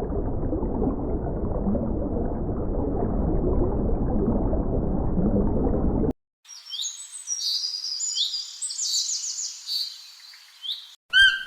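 A low rumbling noise for about six seconds that cuts off abruptly, then a songbird singing: quick high chirps and trills for several seconds, with a short pitched call near the end.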